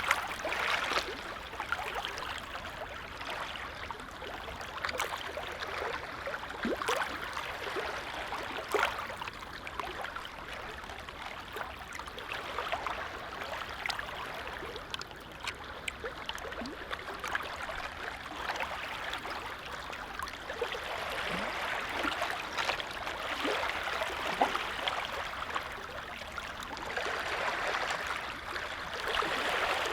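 Small lake waves lapping, a steady wash of water with many little splashes.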